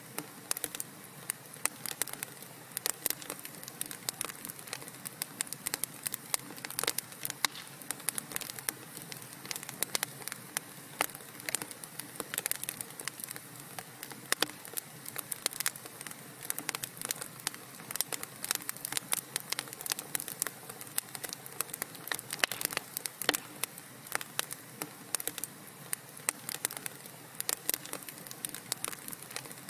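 Wood fire crackling in a fireplace: dense, irregular pops and snaps over a steady soft hiss of burning.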